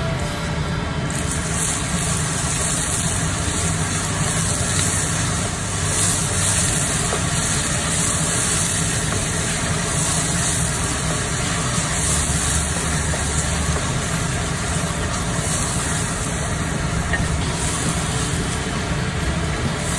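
Lamb mince and onions sizzling in hot oil in a stainless steel pot as they are stirred with a wooden spatula, over a steady low hum.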